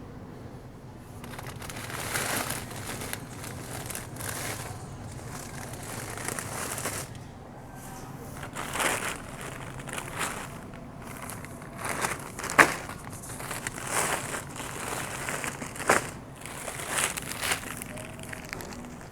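Irregular crinkling and rustling, like plastic or packaging being handled, over a steady low hum, with two sharp clicks, about twelve and a half and sixteen seconds in.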